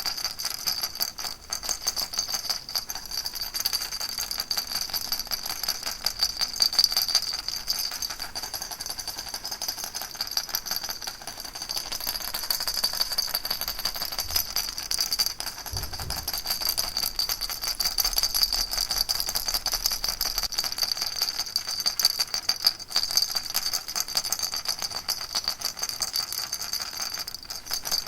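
Baby rattle shaken continuously, a dense, fast, even rattling with a steady high ringing tone over it.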